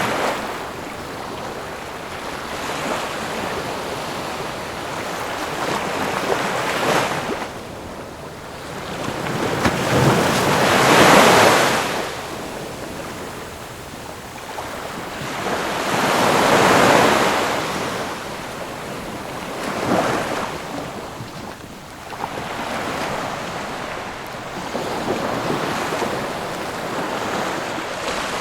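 Ocean waves breaking and washing on a shore in slow surges, each swell rising and falling away over several seconds. The two biggest waves break about eleven and seventeen seconds in.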